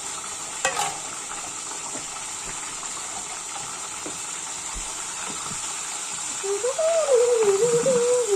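Tap water running steadily into a kitchen sink during dishwashing, with a brief clink a little under a second in. About six and a half seconds in, a child starts singing a wavering tune over the running water.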